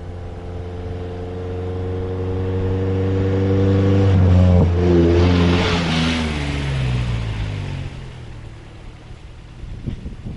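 A car driving past. Its engine note grows louder to a peak about five seconds in, with a rush of tyre and air noise, then drops in pitch as it moves away and fades.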